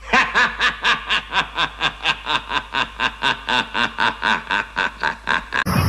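A person laughing in a long string of rapid, even 'ha-ha' bursts, about five a second, that stops abruptly near the end.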